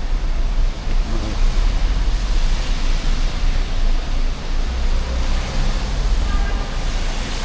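City street traffic on rain-wet roads: a steady hiss of tyres and rain over a low engine rumble.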